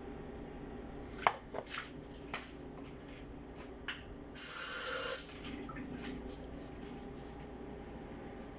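Kitchen ingredients being handled: a few light clicks and taps, then a brief hiss of about a second as chia seeds are added to the blender jar.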